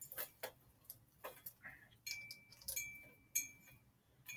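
Light metallic clicks and clinks of an Allen wrench and bike parts being handled during a BMX front-end assembly: about a dozen sparse taps, a few of them with a short ringing tone.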